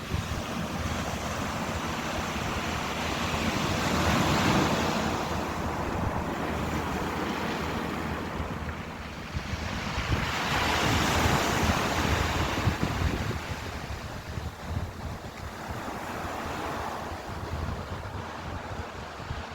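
Ocean surf: waves breaking and washing in, the rush of water swelling and fading three times, the first two loudest.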